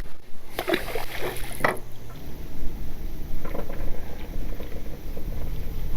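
Small fishing boat on the water: a steady low rumble, with a cluster of knocks and scrapes between about half a second and two seconds in.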